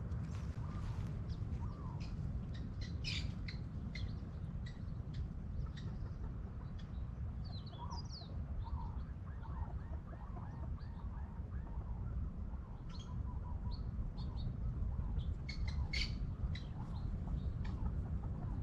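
Several birds chirping and calling: short repeated notes and higher tweets scattered throughout, over a steady low rumble.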